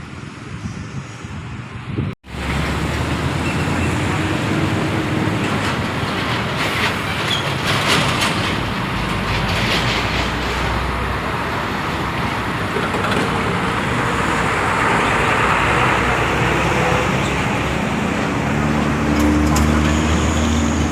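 Loud, steady city street traffic: engines running and tyres on the road, with voices mixed in. The sound cuts out abruptly about two seconds in, then comes back louder.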